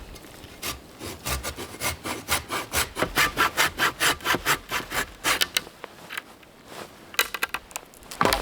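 Hand saw cutting through wood in quick back-and-forth strokes, about four a second, then a short pause and a few more strokes near the end.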